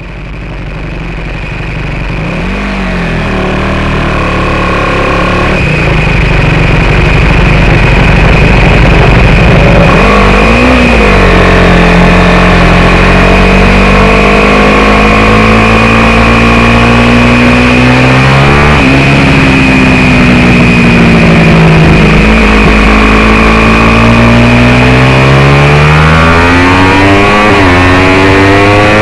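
Single-cylinder racing motorcycle engine heard from onboard, pulling away down the pit lane and onto the track: the revs climb and drop sharply at each upshift, several times, over wind noise and a steady high-pitched whine. The sound swells up over the first few seconds.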